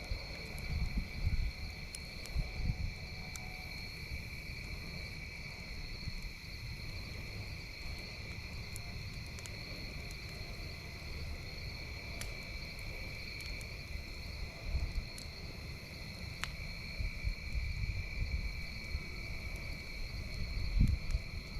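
Crickets chirping in a steady chorus at two pitches, over a low, uneven rumble, with a few faint pops from a crackling campfire.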